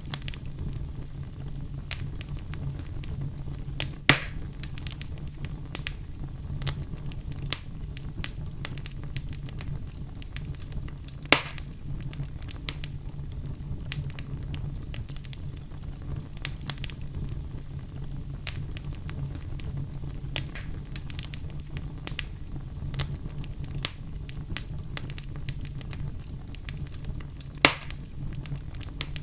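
Wood fire burning in a fireplace: a steady low rumble of flames under continual small crackles, with three louder pops, about four seconds in, near the middle and near the end.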